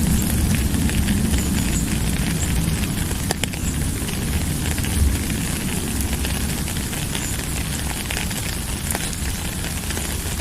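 Steady rain falling: a dense, even hiss of many small drop ticks, with a low rumble underneath.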